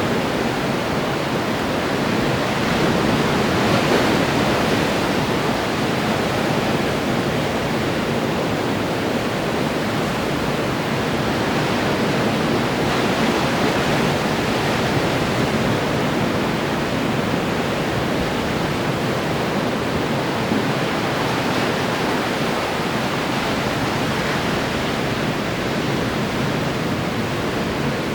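Ocean surf breaking continuously on the shore: a steady rushing wash that swells a little a few seconds in.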